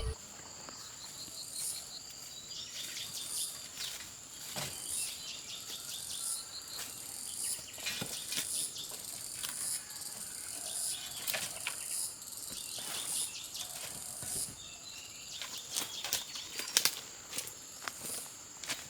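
Outdoor insect chorus: a steady high-pitched drone, with a short, high chirp repeating about once a second. Scattered sharp clicks and knocks come through it, louder and more frequent near the end.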